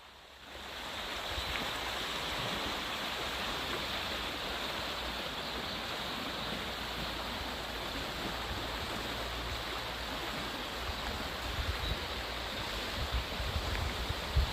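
Mountain river water rushing steadily over stones, fading in during the first second. Low wind rumble on the microphone comes in near the end.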